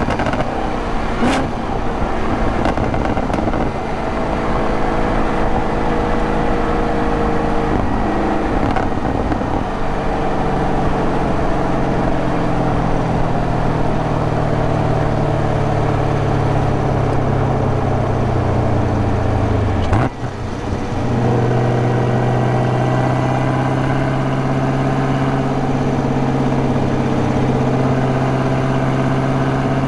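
2023 Camaro ZL1's supercharged 6.2-litre V8 running as the car is driven, with tyre and road noise underneath. The engine note falls slowly for several seconds, breaks off sharply about twenty seconds in, then holds a steady drone.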